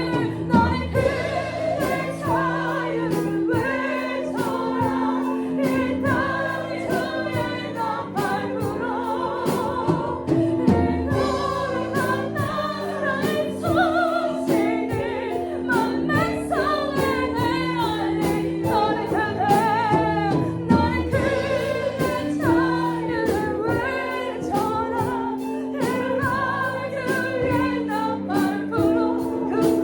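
Christian worship song: a group of voices sings over a band, with sustained chords and a steady drum beat.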